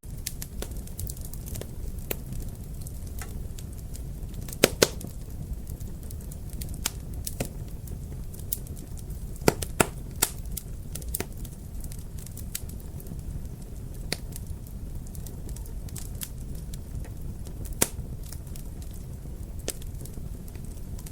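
Wood fire crackling in a fireplace: a steady low rumble of burning with irregular sharp pops and snaps, a few louder pops around five, ten and eighteen seconds in.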